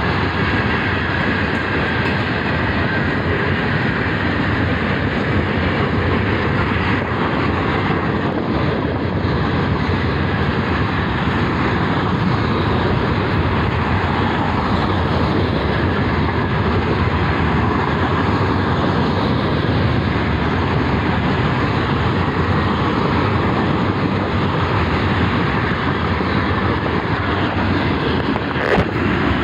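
Florida East Coast Railway freight train's open hopper cars rolling past, a steady rumble and clatter of steel wheels on rail. A brief sharp click near the end.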